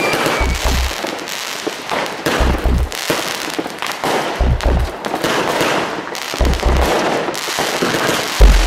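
Fireworks crackling and popping densely, with a falling rocket whistle dying out at the very start. Deep low thuds come about every two seconds.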